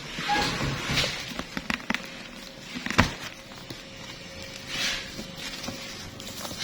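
Packaging rustling with scattered clicks and knocks as the contents are handled during unboxing, and one sharper knock about three seconds in.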